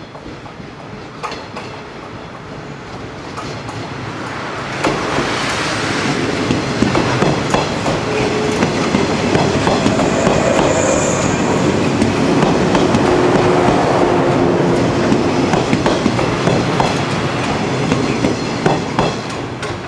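Yellow electric train approaching and passing close by, its wheels clattering over the rail joints. It grows louder over the first five seconds, stays loud as the cars go past, and eases off near the end.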